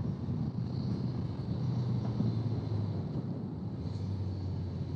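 Motorcycle engine running steadily under way, a low even hum from the ride.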